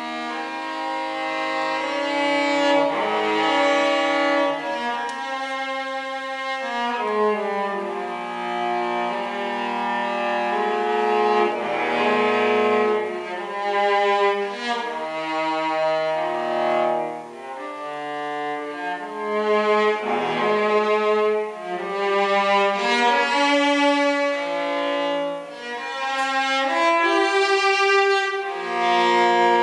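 Cello played with the bow in a classical piece, a flowing passage with several notes often sounding together and the volume swelling and easing.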